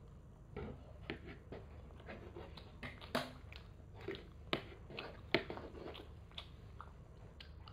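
A child chewing a mouthful of rice close to the microphone, with a run of short, irregular clicks and smacks; the loudest comes a little past the middle.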